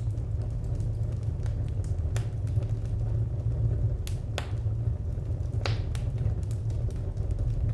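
Wood fire crackling: scattered sharp pops and snaps, a few louder ones about two, four and nearly six seconds in, over a steady low rumble.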